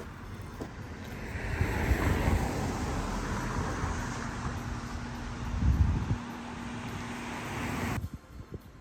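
Moving car's road and wind noise, with gusts of wind buffeting the microphone in low rumbles about two seconds and six seconds in; it cuts off suddenly near the end.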